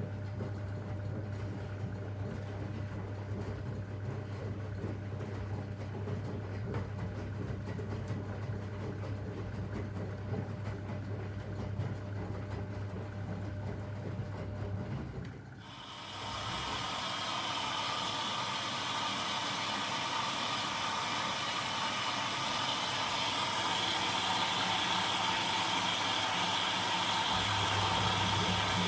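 Zanussi DL22 front-loading washing machine running a 90 °C boil wash: a steady low hum for about half the time, then, after a brief dip, a louder even hissing rush with a few steady higher tones. The low hum comes back near the end.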